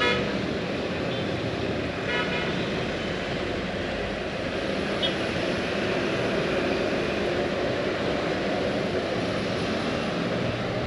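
Steady road traffic noise, with a vehicle horn tooting briefly at the start and again about two seconds in.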